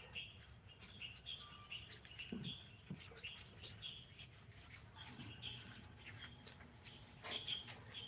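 Faint, repeated short chirps, like small birds, over soft rubbing and scattered light clicks.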